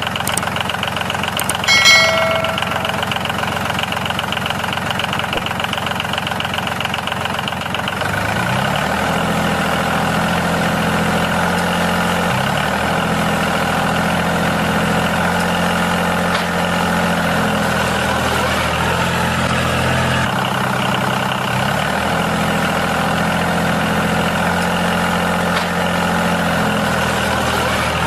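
A steady motor-like running hum, with a short bell-like ding about two seconds in. About eight seconds in it changes to a lower, fuller engine-like drone that dips briefly in pitch a few times.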